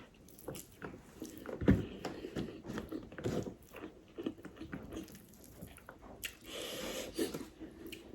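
Close-miked chewing and biting of food by a person eating, a run of short wet mouth clicks with a louder one a little under two seconds in.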